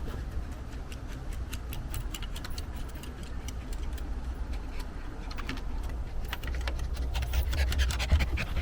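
Irregular clicking and scratching, growing quicker and denser in the second half, over a low rumble.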